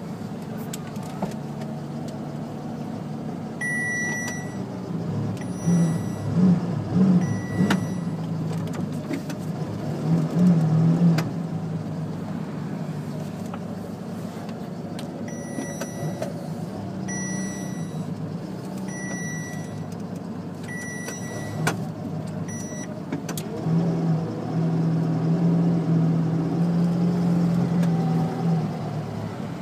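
Ferrari Enzo's V12 engine idling, heard from inside the cabin, with a few quick throttle blips between about 5 and 11 seconds in and a louder, held engine note near the end. A short high electronic beep sounds on and off through the first two-thirds.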